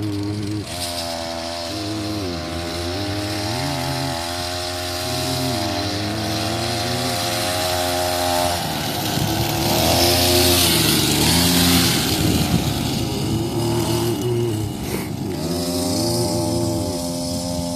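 Small dirt bike engine running and being revved up and down as the bike is ridden. It is loudest and roughest for a few seconds around the middle.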